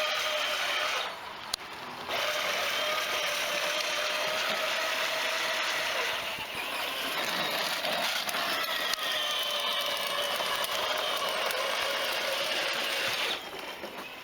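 Small children's ride-on motorbike with its electric motor and gearbox whining steadily and drifting a little in pitch as it drives. The whine stops briefly about a second in and again near the end, as the throttle button is let go.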